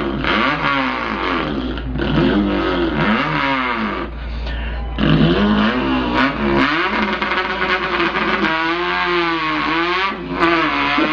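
A man imitating an import car's engine with his voice, a buzzing mouth sound revving up and down in repeated rising and falling sweeps like gear changes, with short breaks for breath.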